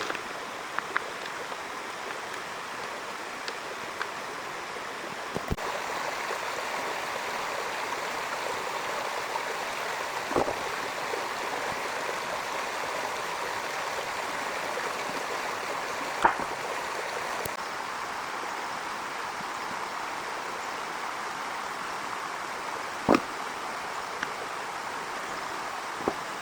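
Steady heavy rainfall, a little louder from about six seconds in, with a few sharp clicks now and then.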